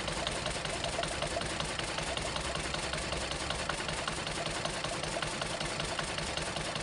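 Diesel engine running steadily, with a fast, even mechanical clatter.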